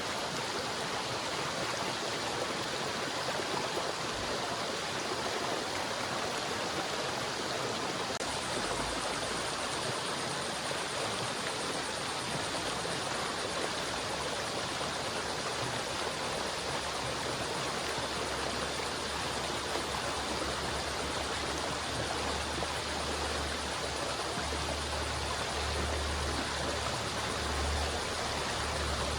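River water rushing steadily over rocks, a continuous even flow. A low rumble comes and goes under it in the second half.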